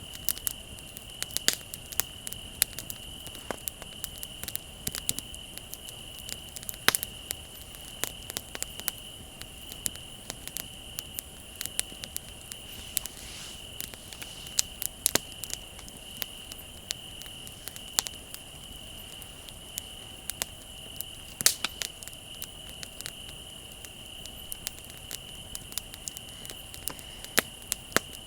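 Wood fire crackling, with frequent sharp snaps and pops, a few of them louder. A steady high chirring of crickets runs underneath.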